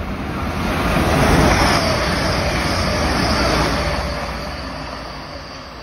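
A passenger train passing close by at speed, its rushing wheel and engine noise swelling to a peak and then fading, with a tone that falls slightly in pitch as it goes by.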